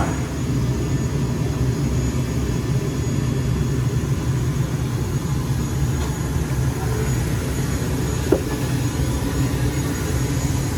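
ATR 72-600's Pratt & Whitney PW127M turboprop engines running, heard inside the passenger cabin as a steady low propeller drone with a faint high whine. A short squeak comes about eight seconds in.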